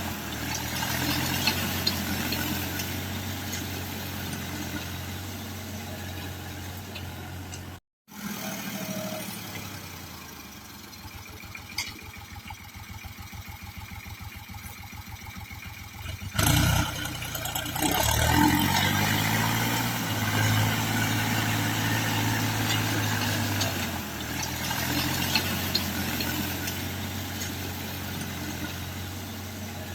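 Three-cylinder diesel engine of a Ford 4630 tractor running at idle. About halfway through it drops to a slow, even low idle, then about 16 seconds in it revs up sharply, rising in pitch, and settles back to a steady idle.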